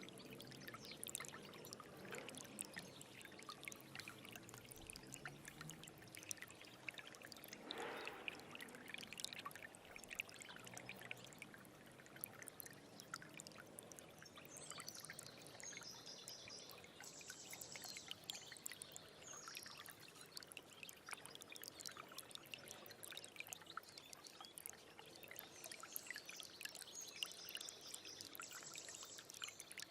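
Small stream trickling and splashing in a steady, quiet gurgle, with faint high chirps twice, once in the middle and once near the end.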